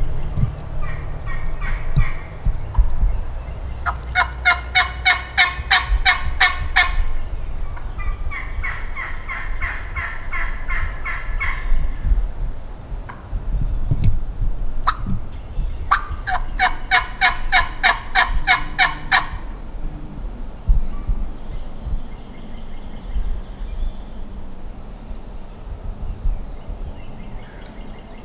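Turkey yelping: three runs of rapid, evenly spaced yelps at about five a second, the middle run softer and lower in pitch.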